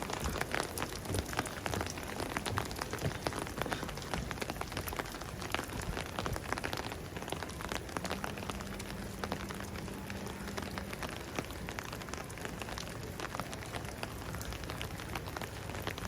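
Steady rain falling, with many close, irregular drop hits over a constant wash of rain noise.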